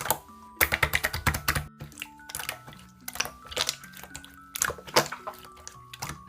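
Slime being squished and pressed by hand, making clusters of wet, sticky clicks and pops, over soft background music with held notes.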